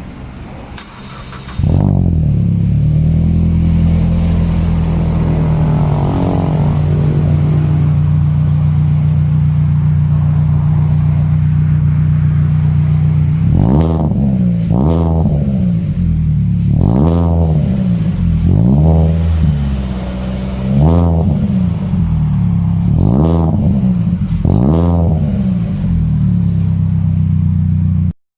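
Proton Saga FLX's exhaust through an HKS Hi-Power muffler: the engine comes in suddenly about two seconds in, idles steadily, then is blipped about seven times in quick succession, each rev rising and falling back to idle, before the sound cuts off near the end.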